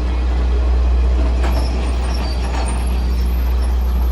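Electric train running, a steady low rumble with a couple of sharp clacks from the wheels.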